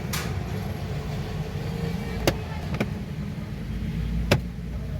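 A car engine running with a steady low rumble, broken by three sharp clicks a little over two seconds in, just under three seconds in, and a louder one about four seconds in.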